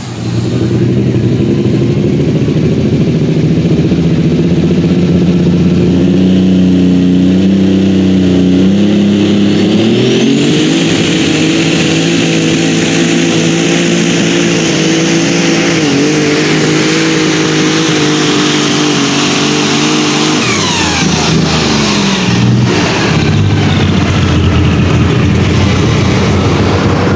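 Pulling tractor's engine running flat out during a hook, with a high whine that climbs about ten seconds in and holds. About twenty seconds in the throttle comes off: the whine and engine pitch slide down and the engine settles to a lower, steady running.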